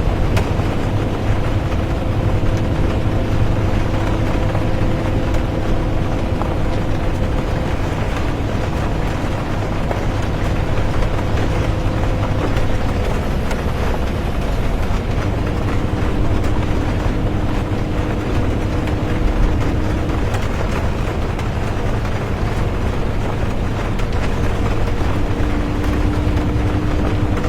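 Bus ride heard from inside the cabin, with rain: a steady low engine and road rumble under an even hiss, and a faint droning whine that steps to a new pitch a few times as the bus changes speed.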